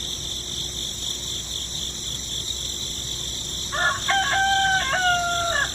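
A rooster crowing once, a long held call that falls slightly in pitch, coming in past the middle over a steady high-pitched background drone.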